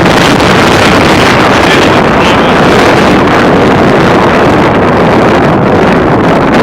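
Strong gusting wind, 40 to 60 mph, buffeting the microphone in a loud, steady rush.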